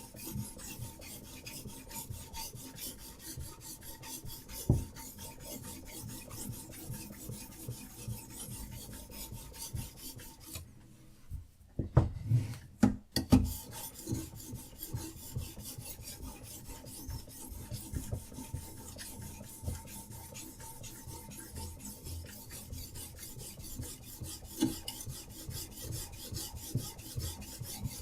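Diamond sharpening stone on a Hapstone RS guided rod sharpener rubbing back and forth along a knife edge in quick, rasping strokes. About eleven seconds in the strokes stop briefly, a few knocks follow, and then the stroking resumes.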